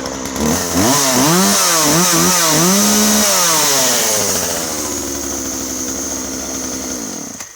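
Husqvarna 136 two-stroke chainsaw just restarted and running: the throttle is blipped several times so the engine revs up and down, then it settles to a steady idle and is switched off near the end.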